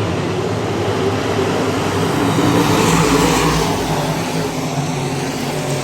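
Dirt-track pure stock race cars running as a pack, the engine noise swelling to its loudest as the cars pass about three seconds in.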